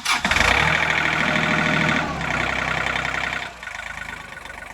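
John Deere 3038E's three-cylinder diesel engine starting and running loudly at first, then dropping to a steady idle about three and a half seconds in.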